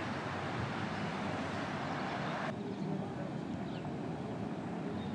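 Boiling hot springs and steam vents giving a steady rushing, bubbling noise. About two and a half seconds in it changes abruptly to a duller, lower rush.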